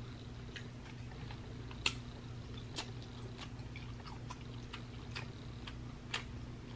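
Close-miked eating of a sticky, sauce-coated barbecue beef rib: sparse wet mouth clicks and smacks as it is chewed, the clearest about two seconds in, about three seconds in and near the end. A faint steady low hum runs under them.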